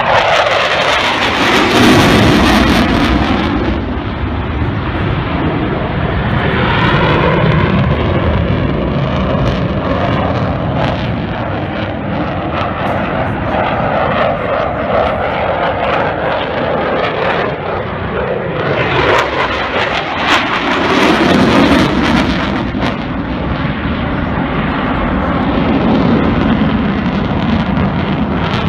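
Eurofighter Typhoon's twin EJ200 jet engines, very loud, as the jet flies past: the pitch sweeps sharply down right at the start, the engine noise runs on steadily, and it swells again about two-thirds of the way through.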